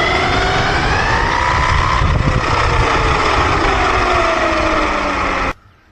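Hyper Go H14BM brushless RC truck's electric motor whining at high speed over a loud rush of noise, its pitch falling slowly as it eases off. It cuts off suddenly near the end.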